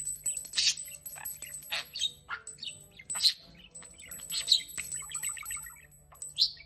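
Bird chirping: short, sharp calls about once a second, with a quick chattering run about five seconds in.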